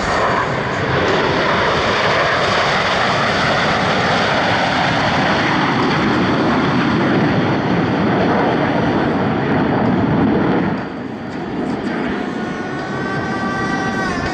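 Blue Angels F/A-18 Super Hornet jets in diamond formation passing overhead, a loud steady jet roar that drops off about eleven seconds in.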